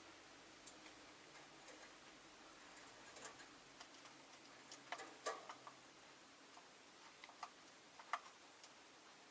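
Scattered faint clicks and taps from a cage of rosy-faced lovebirds, with a small cluster about five seconds in and a sharper tap just after eight seconds, over near-silent room tone.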